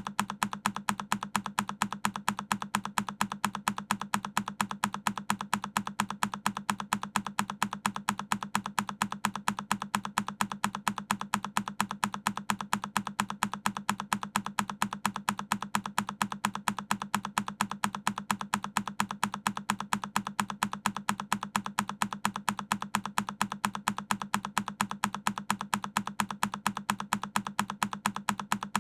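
A single key press on a Keychron K10 mechanical keyboard, looped so the same click repeats at an even, rapid rate, several clicks a second.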